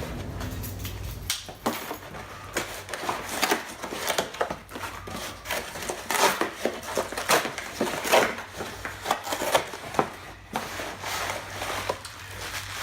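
Packaging being unpacked from a cardboard box: irregular crinkling, rustling and crushing of wrapping in quick, uneven bursts.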